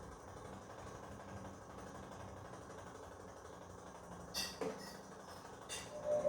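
Bosch washing machine mid-wash: a faint steady low hum, a few brief knocks about four and a half to six seconds in, then the drum motor starting up with a loud whine right at the end.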